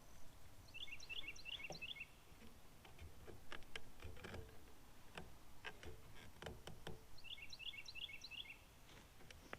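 A songbird sings a short phrase of quick, repeated chirps twice, about a second in and again near the end. In between come scattered small knocks and clicks from handling the PVC pipe and fittings.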